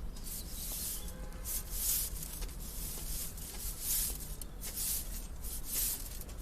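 Regular swishing, scraping strokes, roughly three every two seconds, over a low steady hum.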